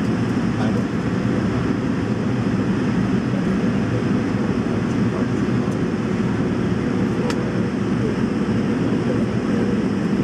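Steady engine and airflow roar of an MD-80 airliner heard inside the passenger cabin during takeoff, with a deep, even rumble and faint steady engine tones.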